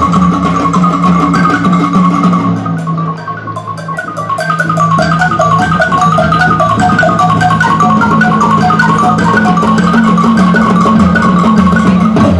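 Percussion ensemble playing marimbas: fast mallet runs climb and fall over sustained low rolled notes. The music thins briefly about three seconds in, then builds back up.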